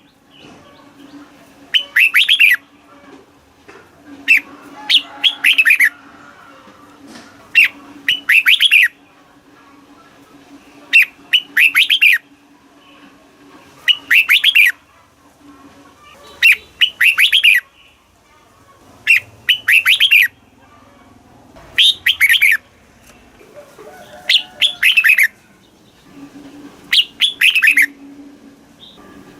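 Red-whiskered bulbul singing: short, loud phrases of quick falling notes, repeated about every two to three seconds, around ten phrases in all.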